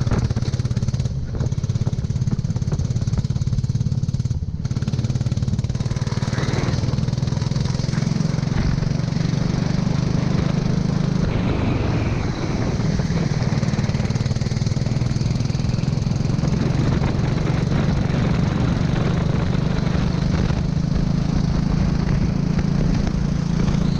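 Go-kart engine running at fairly steady revs under a constant hiss, with the hiss cutting out briefly a few times in the first five seconds.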